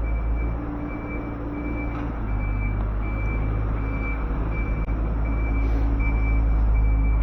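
City street traffic: vehicle engines running with a steady low rumble, and a short high electronic beep repeating about every 0.7 s.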